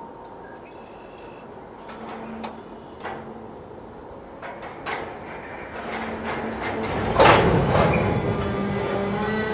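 Freight train's covered hopper cars starting to creep from a stop: scattered metallic clanks and creaks from the couplers and running gear, then a loud burst about seven seconds in, followed by steady squealing from the wheels and brakes as the cars roll slowly.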